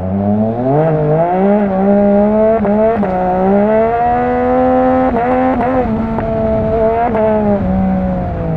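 Yamaha MT-09's inline three-cylinder engine, through an opened-up Akrapovic exhaust, accelerating away. The pitch climbs over the first second or so, then holds fairly steady with several brief breaks and small rises and dips, and eases down near the end.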